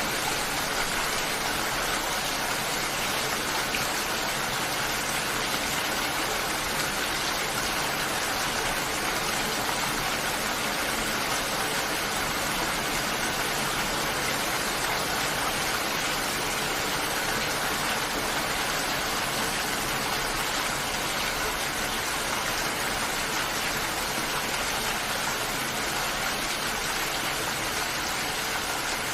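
Steady rain falling: an even, unbroken hiss of many drops with no distinct hits or thunder.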